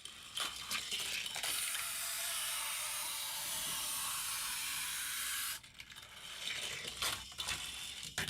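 Hot Wheels die-cast car running along a plastic track: a few sharp clicks, then a steady high hissing whir of the wheels for about four seconds that stops abruptly, then a scatter of plastic clacks and knocks near the end as the car fails to clear a jump.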